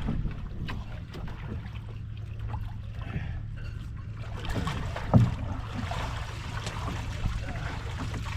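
Water sloshing and dripping around a plastic kayak, with scattered knocks of gear being handled against the hull, the sharpest about five seconds in, over a steady low rumble.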